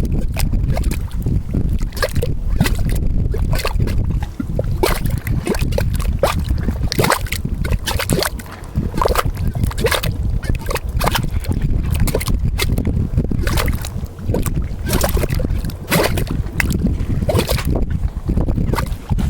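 Bubbling mud pot: gas bubbles burst through thick hot mud, which pops and gurgles irregularly, about a pop or two a second, over a steady low rumble. The gas is carbon dioxide rising through the geothermal mud.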